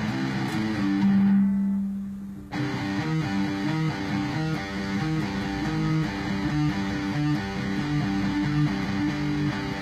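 Guitar playing a riff: a held low note rings for about a second and a half and fades, then a repeating riff of short, chopped low notes picks up and continues.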